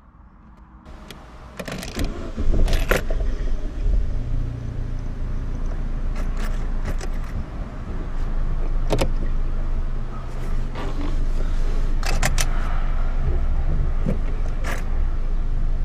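Opel Astra G's 1.6 8-valve four-cylinder petrol engine (Z16SE) idling with the car at a standstill, heard from inside the cabin. Several sharp clicks and clunks from the cabin controls stand out over the hum.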